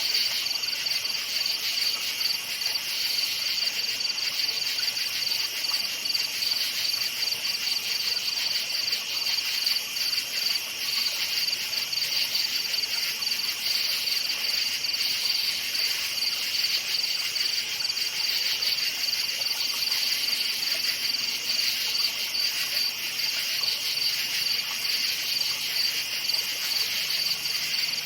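Crickets chirping in a continuous chorus: a steady, high, shimmering trill at two pitches, with no change in rhythm or loudness.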